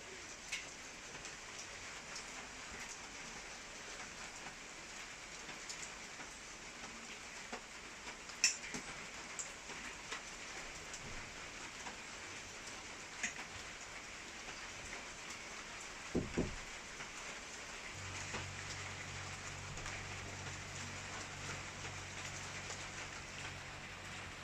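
Steady rain falling, with scattered sharp ticks of drops hitting a surface. A brief low thud comes about two-thirds through, and a steady low hum starts soon after it and runs on under the rain.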